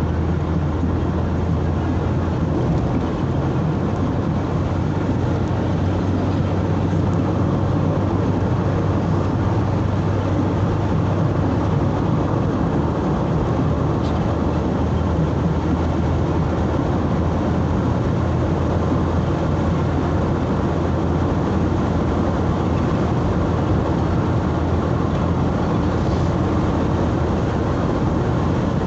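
Steady driving noise of a road vehicle heard from inside: a constant low engine hum under even tyre and road noise.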